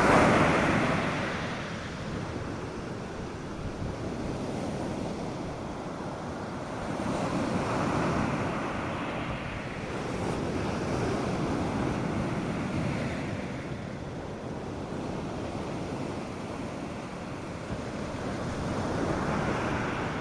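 North Sea surf breaking and washing up the beach in slow swells. It is loudest right at the start, then swells again around eight seconds, from eleven to thirteen seconds, and near the end.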